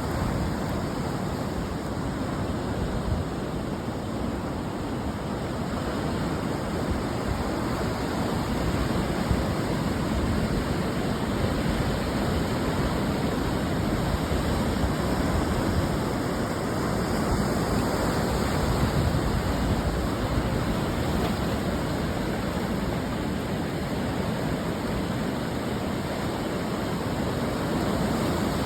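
Ocean surf breaking on the shore: a steady wash of noise that swells slowly and gently.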